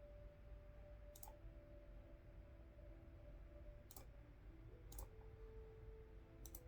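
Computer mouse clicks: four sparse, sharp clicks, the last a quick double click, over faint held tones.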